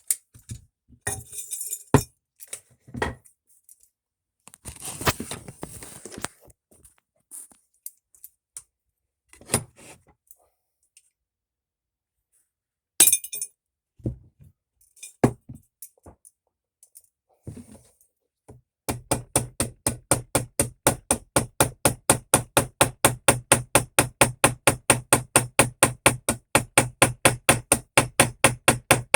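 Scattered clinks and knocks of metal tools and parts being moved, then from about two-thirds of the way in a small hammer tapping steadily, about four strikes a second, peening a pin to rivet a pocket knife together.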